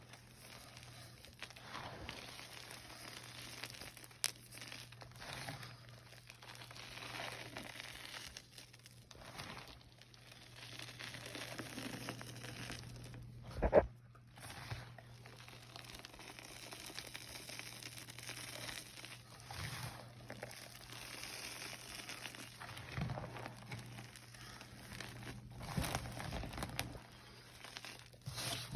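Blocks of gym chalk being crushed and crumbled: a continuous dry, powdery crunching and crackling, with one loud knock about halfway through. A faint steady low hum lies underneath.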